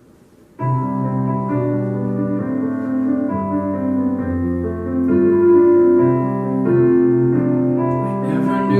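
Piano accompaniment starting about half a second in and playing slow, sustained chords: the introduction to a musical-theatre song.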